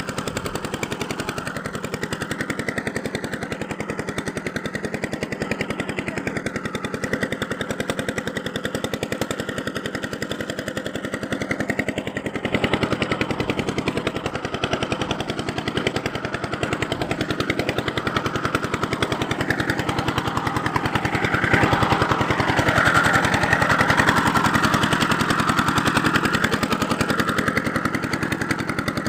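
A handheld power tool running with a rapid, even rattle, in a rust restoration of a tin toy truck. It gets louder after about twelve seconds and louder still in the last third.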